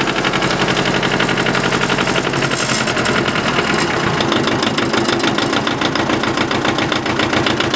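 Yanmar 18-horsepower two-cylinder diesel tractor engine idling, a steady rapid diesel clatter.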